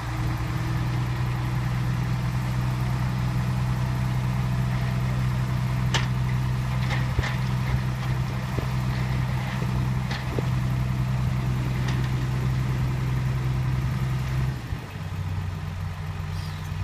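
Heavy diesel earthmoving engine running steadily at low revs, with a few sharp clicks and clanks in the middle; about fourteen and a half seconds in its note drops slightly and goes quieter.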